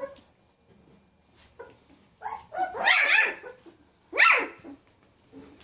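Young Labradoodle puppy crying: a few short cries about two seconds in, a loud cry near three seconds, and a sharp rising squeal a second later. It is a hungry pup crying for milk.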